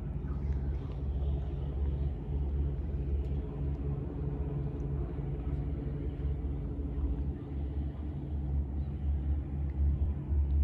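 Sightseeing boat's engine running with a steady low rumble and hum.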